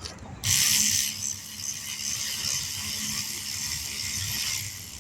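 Air hissing steadily out of a tire valve. It starts sharply about half a second in, is loudest at first, and stops just before the end.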